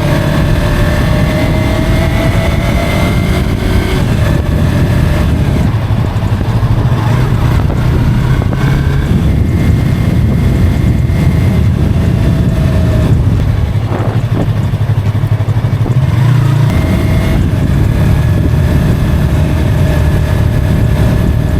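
A motor vehicle's engine running loudly on the move, its pitch stepping up and down several times as the speed changes, over steady road and wind noise.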